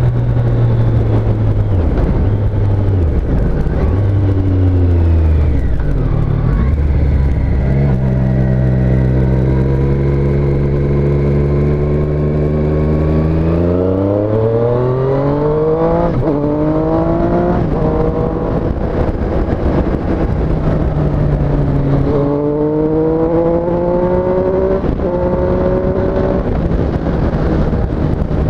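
Triumph Street Triple S's 765 cc three-cylinder engine ridden on the road. The revs fall in steps early on, then hold steady. About halfway through, the engine pulls a hard acceleration, and the revs rise quickly through several upshifts. It revs up again through another gear near the end.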